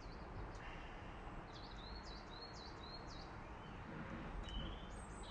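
Small songbird singing outdoors: a quick run of short, high, repeated notes about a second and a half in, and a few more near the end, over a low, steady background of outdoor noise.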